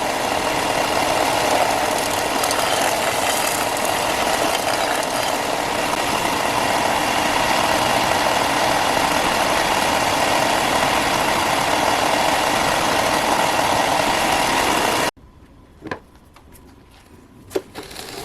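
A power tool running steadily at a constant pitch, then cutting off abruptly; a few light clicks and knocks follow near the end.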